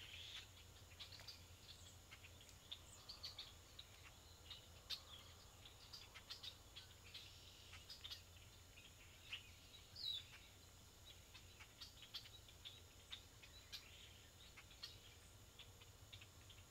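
Faint marsh ambience: scattered short bird chirps and clicks, a few with quick downward pitch sweeps, over a steady low hiss.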